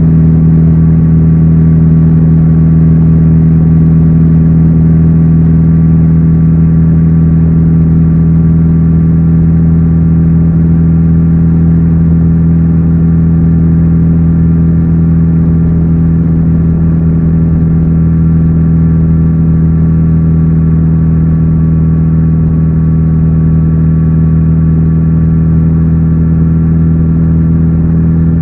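Kawasaki Z900RS inline-four engine running through its stock exhaust, holding one steady pitch throughout.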